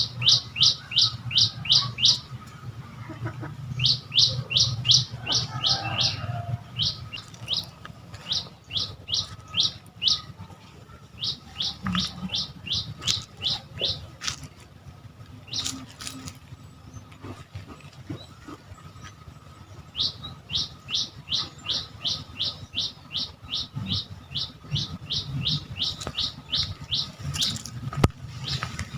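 A small bird calling in rapid runs of short, high chirps, each note sliding downward, about five a second. The runs last a few seconds each, with short pauses between them and a longer lull in the middle.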